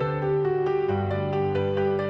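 Background music: soft piano-led instrumental with sustained notes over a slowly changing bass.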